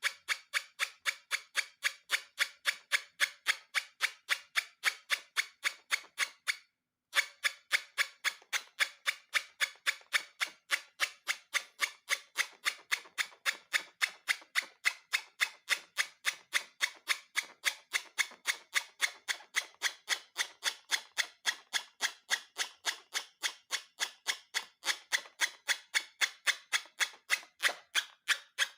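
A rapid, evenly spaced run of sharp clicks, about three a second, with a short silent break about seven seconds in.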